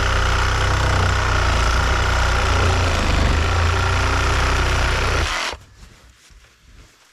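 A loud motor-driven machine running steadily with a fast, rough pulsing and a steady whine, then cutting off suddenly about five seconds in.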